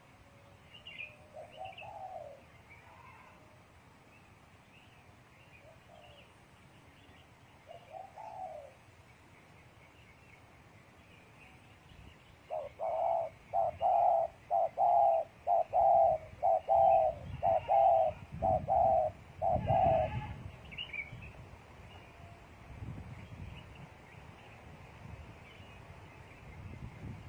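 Spotted dove cooing: a few soft coos, then a loud, even run of about a dozen coo notes lasting several seconds. Faint chirps of small birds and low thumps are heard in the background.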